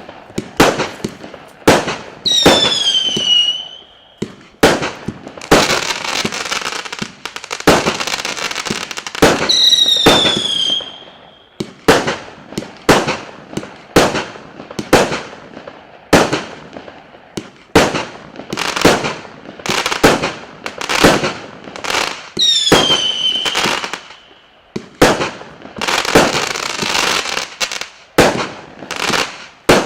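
100-shot firework cake firing shot after shot, a sharp bang every second or so. Three of the shots carry a whistle that slides down in pitch, and some bursts trail off into longer noisy tails.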